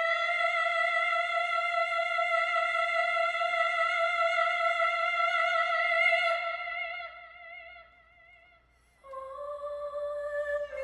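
A female singer holding one long high note with vibrato for about six seconds, which fades away. About nine seconds in, a slightly lower held note begins.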